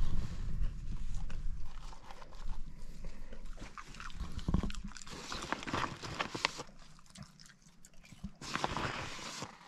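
Chips being chewed: a run of small wet clicks and crunches, busiest around the middle, with a low rumble at the start and a short noisy burst near the end.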